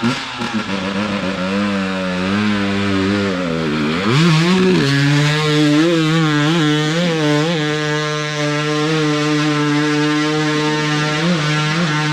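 Dirt bike engine revving: the pitch wavers up and down, dips and climbs about four seconds in, then holds high and steady with small blips of the throttle.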